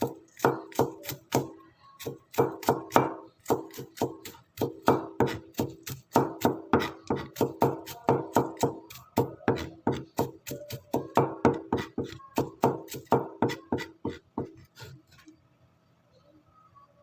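Knife chopping garlic on a cutting board, a steady run of quick strokes about three to four a second that stops near the end.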